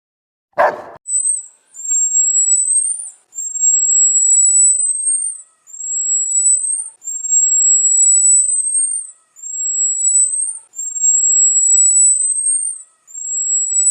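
A single short bark-like call, then a series of about seven long, very high-pitched whistling calls from an animal, each rising slowly and ending in a quick upward flick, with short pauses between.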